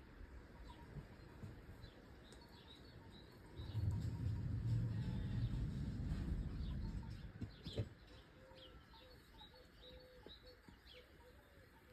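Wild birds chirping and calling throughout, with short high chirps scattered across the whole stretch. A low rumble rises about four seconds in and dies away a few seconds later.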